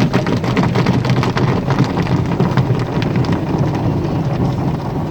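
Automatic car wash working on a car: water spraying and drumming on the car body with many rapid hits, a dense rain-like rush.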